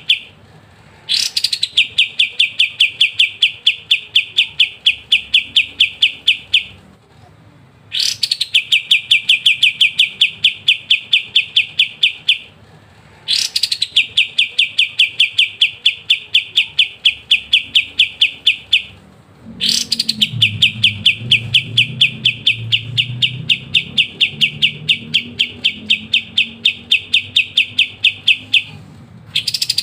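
Kapas tembak songbird singing its 'ngebren' song: long rapid rattling trills of several seconds each, each opening with a quick rising note and set apart by short pauses. Four full phrases are heard, and a fifth starts right at the end.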